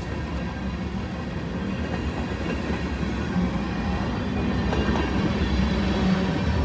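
Train rolling by, a steady rumble of engine and wheels on rails that grows gradually louder.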